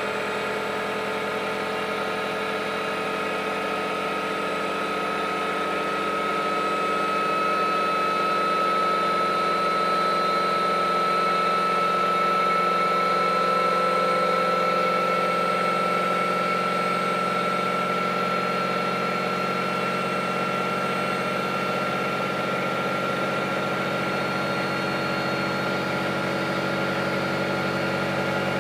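Samsung front-loading washing machine running through its cotton cycle, its motor and drum giving a steady hum with a whine that rises slowly in pitch as the drum gathers speed. It grows a little louder midway.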